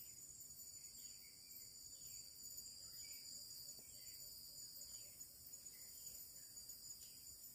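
Faint forest insect chorus: crickets and other insects trilling steadily and high-pitched, with a short falling call repeating about once a second.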